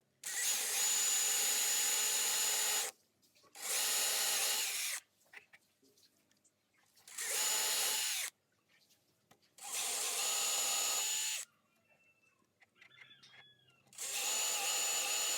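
Electric drill run in repeated bursts of one to three seconds, each holding a steady high whine and then stopping, with short pauses between. There are four bursts and a fifth begins near the end.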